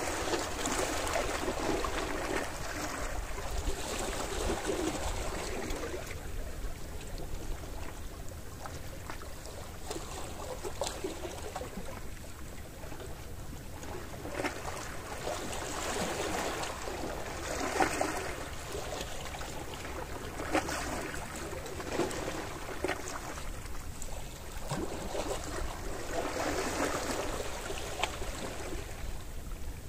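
Sea waves washing in on the shore, the surf noise swelling and fading every few seconds with small splashes.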